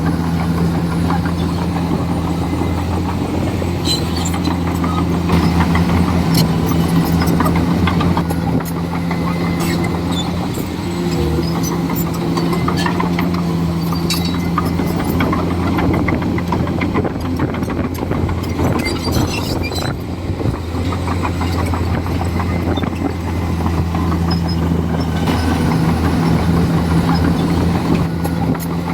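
Komatsu D41E bulldozer's diesel engine running steadily, with scattered clanks and knocks.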